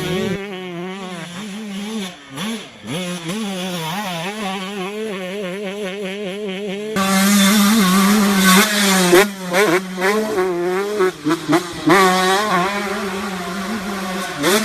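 125cc two-stroke motocross bike engines revving hard, their pitch rising and falling constantly with throttle and gear changes, with brief throttle chops. About seven seconds in the sound jumps louder and brighter.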